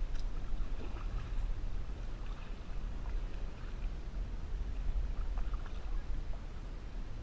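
Water lapping and splashing faintly against a kayak hull, with a steady low rumble of wind on the action-camera microphone.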